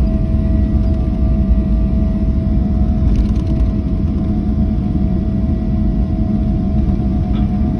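Steady low rumble and constant hum inside a Boeing airliner's cabin, its jet engines running as it taxis after landing.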